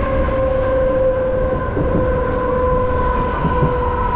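Passenger train running, heard from inside a coach at an open barred window: a low rumble with a steady, even whine over it.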